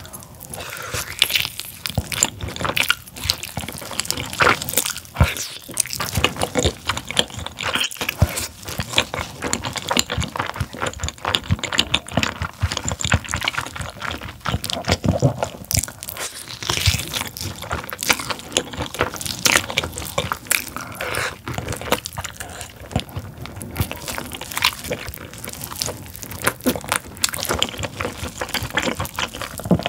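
Close-miked eating of a whole braised pork tail: biting and chewing the springy skin and meat, a dense stream of short clicks from the mouth.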